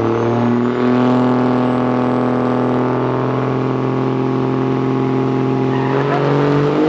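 A drag-racing vehicle's engine held at a steady raised rpm, a constant pitched drone with a thin high whine that slowly rises. Near the end the engine note wavers and shifts.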